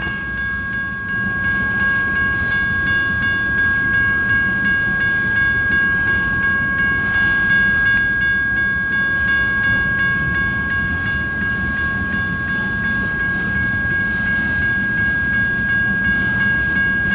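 A heavy freight train of tank cars rolling past at a grade crossing, a continuous rumble and rattle of steel wheels on rail, slightly louder from about a second in. A steady high-pitched ringing tone sits above it.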